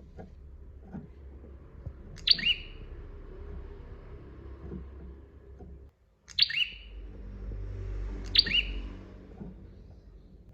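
Prenjak (prinia) calling: three short, loud, sharp calls, each a quick falling note doubled, about two, six and eight seconds in, over a low background rumble.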